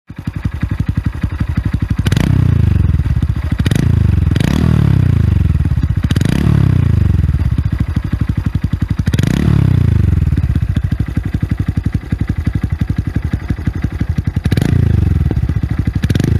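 Honda Monkey 125's single-cylinder four-stroke engine idling through an OVER Racing stainless up-muffler, with the throttle blipped about six times so the exhaust note rises sharply and falls back to idle.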